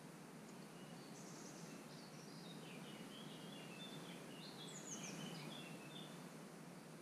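Faint outdoor ambience with a small bird singing a string of short, high chirps and whistles of varying pitch, a few of them falling, from about a second in until past the middle.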